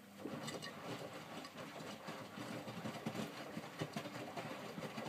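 Miele W562 washing machine tumbling a small, wet load in its drum during the main wash, starting about a quarter second in. This is a short, gentle tumble, typical of the minimum iron cycle.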